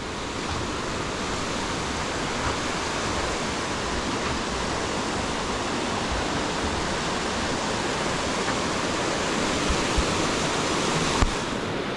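Steady rush of a river's rapids and waterfall, an even noise with no let-up, with a couple of faint low thumps near the end.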